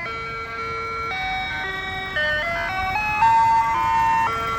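Ice cream truck's loudspeaker chime playing its electronic jingle: a simple tune of single held notes stepping up and down.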